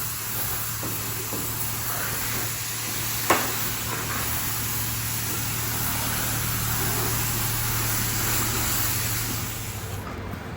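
Self-serve car wash's high-pressure rinse wand spraying water onto a car, a steady hiss over a low steady hum, with one sharp click about three seconds in; the spray stops near the end.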